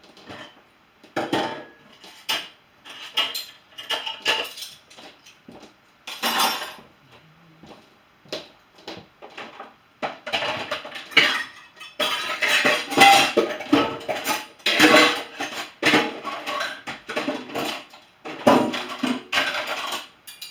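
Dishes and cutlery clinking and clattering as a dishwasher is loaded: a run of separate knocks and clinks, sparse at first and busier and louder from about halfway through.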